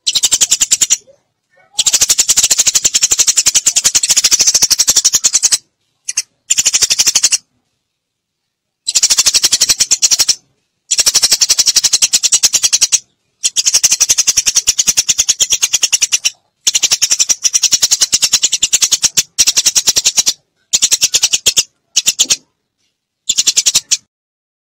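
Eurasian tree sparrows chirping in rapid, dense runs of high chip notes, chopped into about a dozen bursts with sudden silent gaps between them: a sparrow lure call recording.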